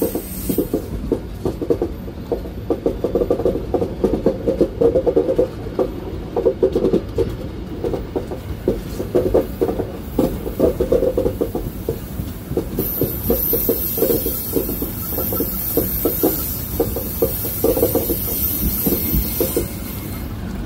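Passenger train running on the track: a steady rumble with dense, irregular clattering knocks of the wheels on the rails. A high steady hiss joins about two-thirds of the way through and stops shortly before the end.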